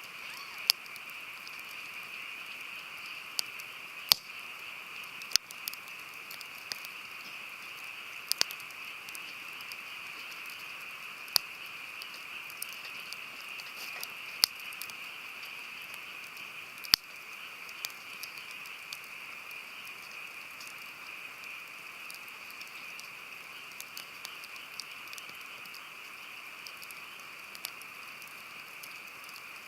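Wood campfire burning: a steady hiss with irregular sharp crackles and pops, a few much louder snaps among them.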